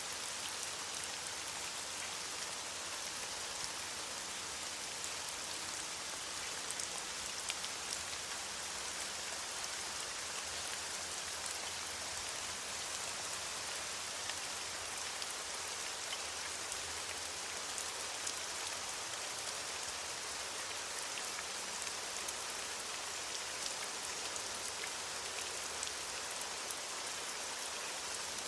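Steady rain falling on leaves: an even hiss dotted with fine drop ticks.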